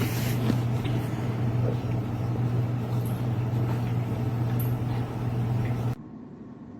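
A steady low mechanical hum with a hiss over it, cutting off abruptly about six seconds in.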